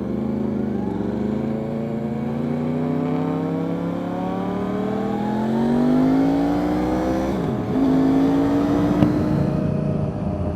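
Yamaha R1 sport bike's inline-four engine accelerating, its pitch rising steadily for about seven seconds, then dipping briefly at a gear change and holding a steadier pitch before easing off near the end.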